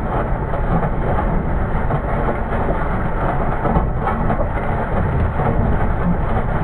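White 6125 tractor's diesel engine running steadily, a dense low rumble with mechanical rattle and no change in pace.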